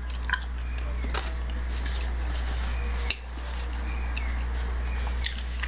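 A person chewing a mouthful of food, with a few faint soft clicks, over a steady low hum that briefly drops about three seconds in.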